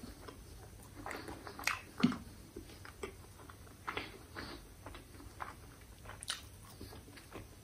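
Quiet chewing and mouth sounds of a man eating a burger, with scattered soft clicks and crackles as the bun is torn and handled.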